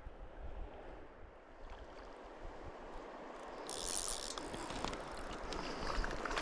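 Shallow stream running, a steady wash of water noise that grows a little louder after about four seconds, with a brief burst of sharper hiss just under four seconds in.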